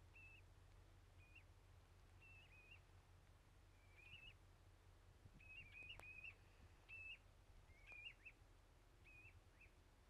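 Faint, short high-pitched bird calls, repeated about once a second at an uneven pace, over a low steady rumble. A single sharp click comes about six seconds in.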